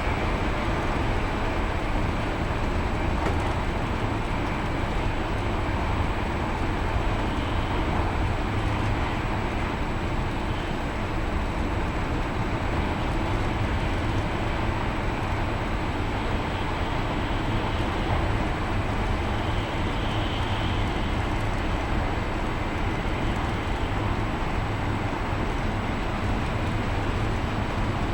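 Steady running noise of an E5 series Shinkansen heard inside the passenger cabin: an even low rumble with a hiss over it.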